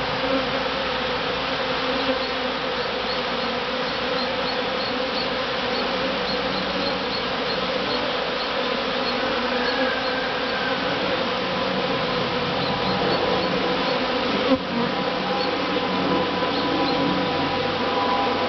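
Dense, steady buzzing of a large honey bee swarm, the many wingbeats of thousands of bees blending into one loud hum as they settle into their new hive box.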